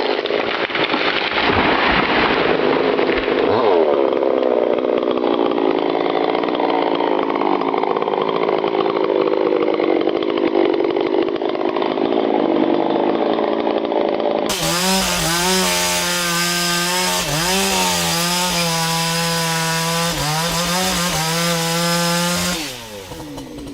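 Chainsaw running at full throttle while cutting into wood. About two-thirds of the way through there is an abrupt change to another chainsaw with a clearer, steady engine note that dips in pitch several times in the cut, then drops away near the end.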